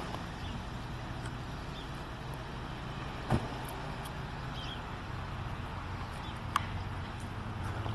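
Audi A6 2.0 TDI's four-cylinder turbodiesel idling steadily, with a few short clicks over it.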